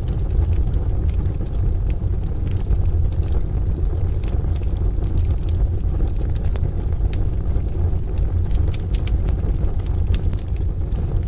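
Wood fire crackling in a stove, with frequent short, sharp pops over a steady deep rumble.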